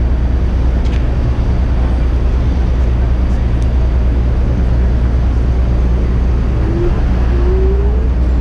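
Wind buffeting a bicycle-mounted action camera's microphone while riding, a steady low rumble over city traffic. Two short rising squeaks come near the end.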